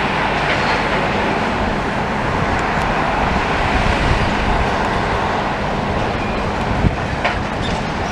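Steady din of heavy demolition machinery, excavators working the rubble, with a low steady hum throughout. A single sharp knock comes about seven seconds in.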